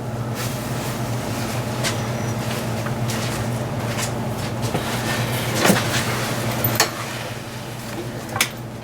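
Scattered, irregular metal clicks and knocks of work on a BMW 325xi engine as it is being separated from its transmission, over a steady low hum.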